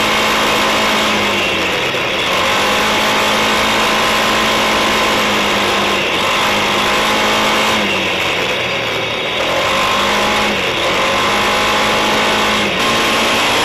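Suzuki King Quad ATV's single-cylinder four-stroke engine running under way at a steady speed, its note dipping briefly a few times as the throttle eases.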